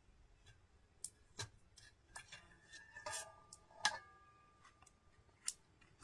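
Faint, scattered clicks and taps of cooking utensils, with a short ringing clink in the middle.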